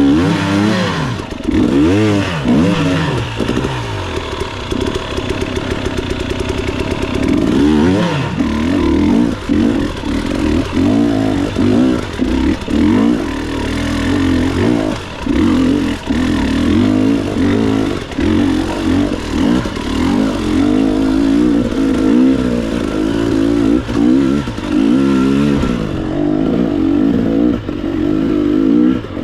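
Motorcycle engine revving and accelerating, its pitch sweeping up and down repeatedly over the first several seconds, then wavering quickly as the throttle is worked.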